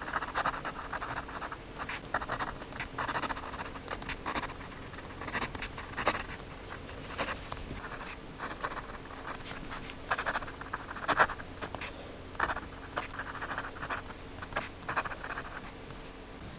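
Paper being scratched and rubbed while a journal page is made, in short irregular strokes with scattered sharp ticks.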